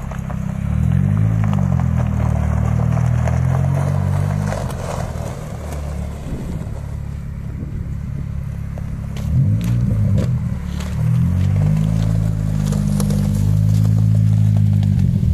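Nissan 200SX S14a's turbo four-cylinder engine running and being revved, its pitch rising and falling near the start and again about ten seconds in, then holding steady. Footsteps crunching on gravel in between.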